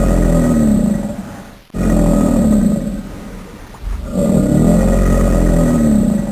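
A big cat roaring: a deep, rough roar that breaks off sharply a little under two seconds in and starts over, like a recording played repeatedly.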